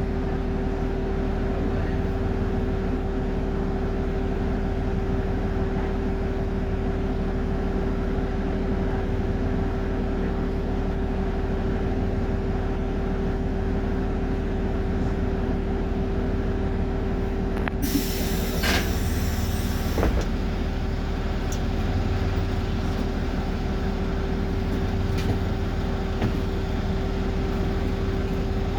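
Cummins diesel engine of a BMC Procity city bus running, heard from inside the bus as a steady hum with a steady whining tone. About two-thirds of the way through, a sudden hiss joins in, with a couple of sharp knocks.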